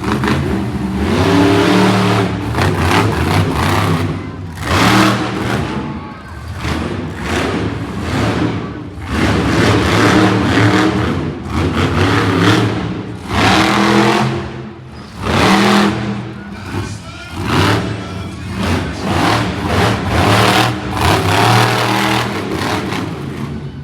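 Monster truck engines revving hard in repeated bursts, about one every one to two seconds, loud throughout.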